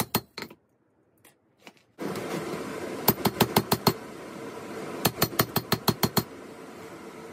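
Hammer blows ringing on an anvil, striking steel in two quick runs of several blows each. A steady rushing noise starts about two seconds in and continues under them.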